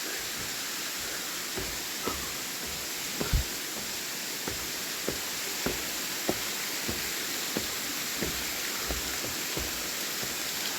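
Waterfall water rushing as a steady hiss, with footsteps on the trail as soft thumps roughly every half second or so.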